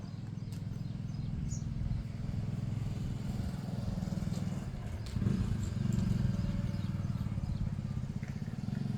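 An engine running steadily, a low hum that grows a little louder about five seconds in.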